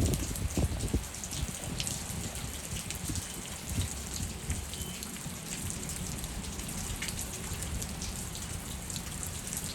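Heavy rain falling steadily, with many small drop taps, over a gusty low rumble of wind that is strongest in the first second and then eases.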